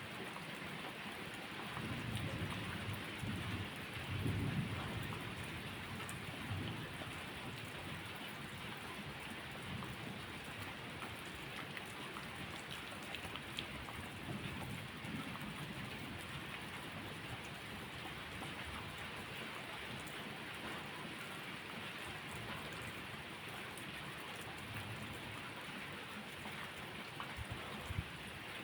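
Steady rain falling, with low rolls of thunder swelling in the first few seconds and again about halfway through.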